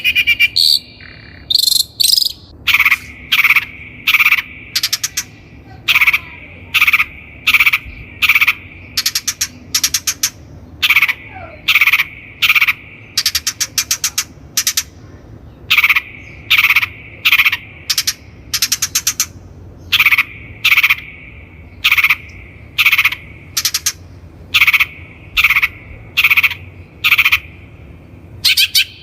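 Long-tailed shrike giving a long run of harsh, rasping notes, about one to two a second, with a few short pauses.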